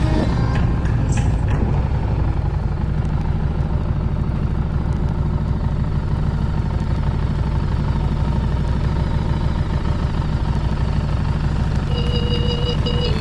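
Motorcycle engine running steadily with a low rumble. Near the end a steady high-pitched tone joins in.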